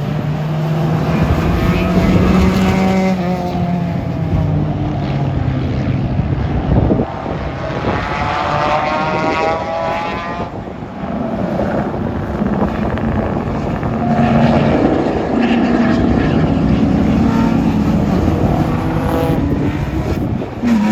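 Race car engine running hard on a track, its pitch climbing and dropping several times as it accelerates and shifts or lifts.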